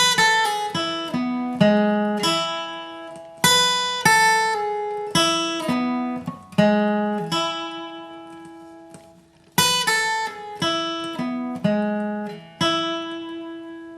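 Capoed acoustic guitar flatpicked in a bluegrass single-note riff, alternate up-down picking, each note struck sharply and left to ring. The notes come in two phrases with a brief gap a little after halfway.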